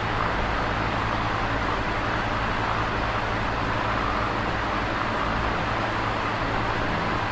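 Electric fan running steadily: a constant whoosh of air from the blades over a low, even motor hum.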